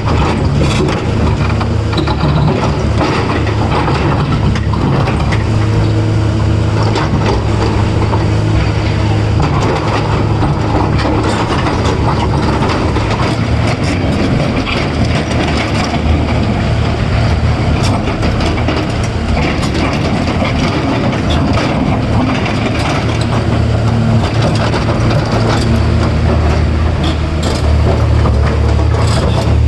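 Caterpillar 336 excavator's heavy diesel engine running steadily under load while loading a dump truck, with frequent clanks and knocks throughout.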